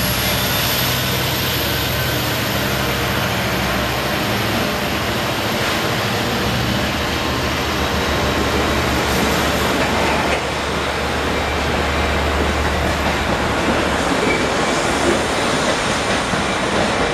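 Long Island Rail Road train of an EMD DE30AC diesel-electric locomotive and C3 bilevel coaches pulling out and rolling past close by: a steady, loud mix of low engine drone and the rumble and rattle of wheels on the rails.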